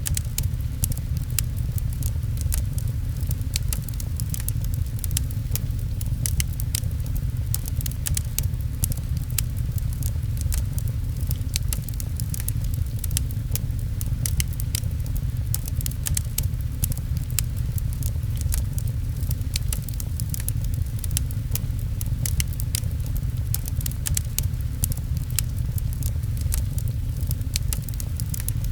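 Fireplace crackling with many small sharp pops, over steady rain patter and a constant low rumble.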